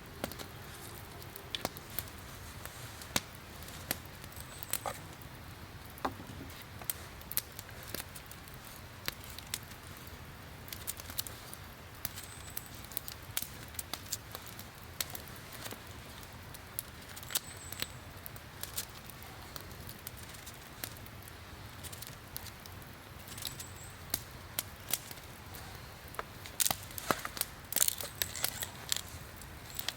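Wood campfire crackling, with irregular sharp pops throughout and a burst of louder pops near the end.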